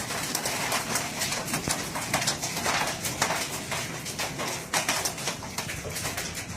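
Heavy storm rain: a steady hiss with many sharp, rapid impacts.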